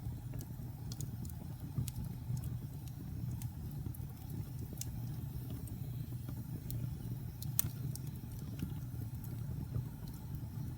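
Wood fire burning in a fireplace: a low steady rumble from the flames, with scattered sharp crackles and pops, one louder pop about seven and a half seconds in.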